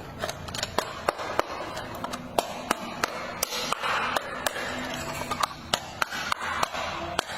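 A series of irregular sharp clicks and taps from plastic toy parts being handled, with a short hiss about four seconds in.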